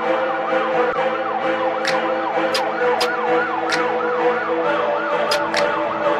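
Siren in a fast yelp, its pitch rising and falling about twice a second, over steady held tones and sharp ticks in a regular beat.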